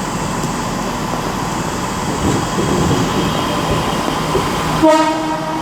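West Midlands Railway class 323 electric multiple unit running out of the platform with a steady rumble and hiss. About five seconds in comes a short, single-pitched horn blast, a driver's toot that the spotter acknowledges with thanks.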